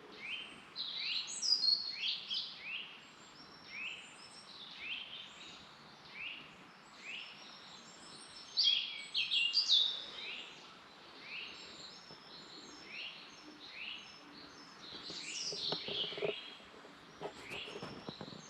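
Wild birds singing: a rapid run of short falling notes, about two a second, with other higher chirps over it. A few short knocks near the end.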